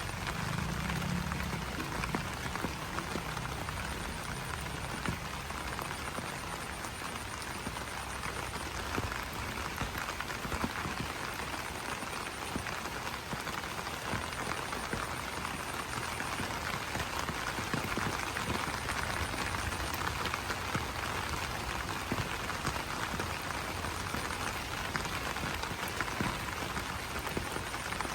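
Rain falling on banana leaves: a steady dense patter of drops on the broad leaves. A faint high trilling comes and goes over it.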